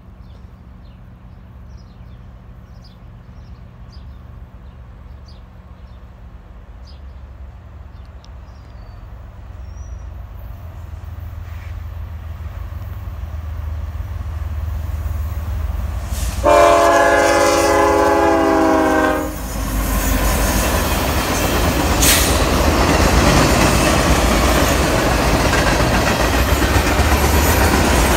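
Freight train's diesel locomotives approaching, their low engine rumble building, then a multi-note air horn blast of about three seconds. The locomotives and freight cars then pass close, with loud wheel and rail noise.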